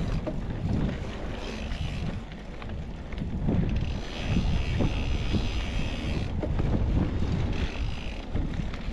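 Wind buffeting the microphone over the rumble of mountain bike tyres rolling fast on dirt and rock, with the bike knocking and rattling over bumps.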